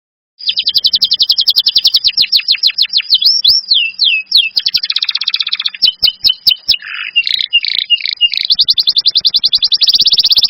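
A songbird singing loud, very fast trills of rapidly repeated high notes, with a few down-slurred whistles and scratchy chattering notes in the middle before the fast trill resumes; it starts abruptly about half a second in.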